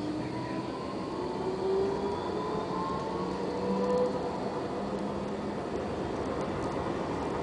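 Frankfurt tram running, its motor whine rising in pitch over the first few seconds over a steady rumble of running noise.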